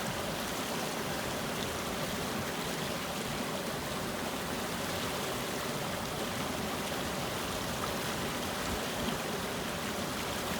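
Spring water flowing in a steady, continuous rush.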